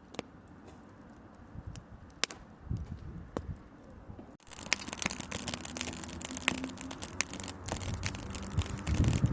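Small wood campfire crackling, with scattered sharp pops at first; about four seconds in the sound turns suddenly louder, with dense crackling and hiss.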